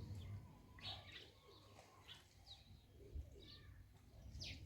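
Faint, scattered bird chirps, short high calls a few times a second apart, over a quiet background.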